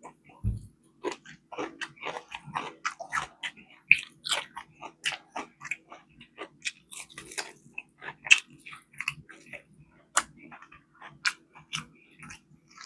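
A person chewing and biting into fried chicken wings close to the microphone: a run of quick, irregular mouth clicks and smacks. There is a brief low thump about half a second in.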